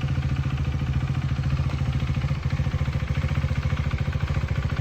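KTM Duke 390's single-cylinder engine idling steadily, with an even, rapid pulse.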